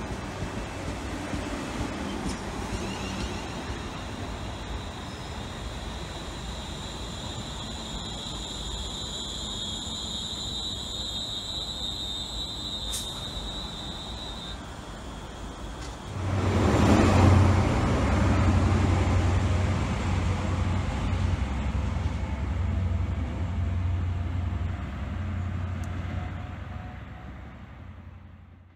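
London Northwestern Railway Class 350 Desiro electric multiple unit pulling out of the platform, with a steady high whine that stops about halfway through. Then a sudden, much louder deep rumble sets in and fades away near the end.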